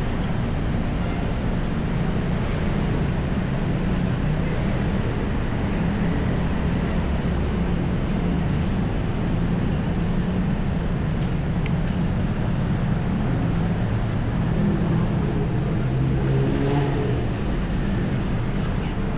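Busy city street traffic: a steady drone of vehicle engines and tyres, with a nearby engine briefly louder in the last few seconds.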